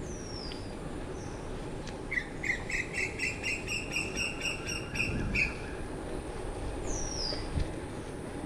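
Birds calling. A high whistle that falls in pitch comes at the start and again near the end, and a fast run of about a dozen clear repeated notes, roughly four a second, starts about two seconds in. Under them runs a steady low rumble.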